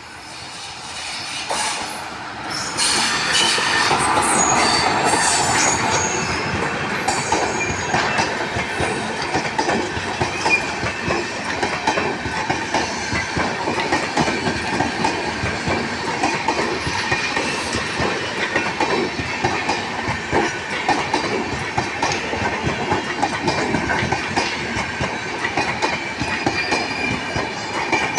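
Indian Railways train rolling past close by: it builds up over the first few seconds, then runs on as a steady stream of wheels clattering over rail joints, with some high wheel squeal early in the pass.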